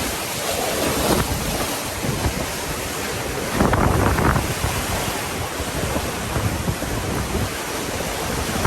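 Ocean surf washing in, with strong wind buffeting the microphone; one wave surges louder a few seconds in.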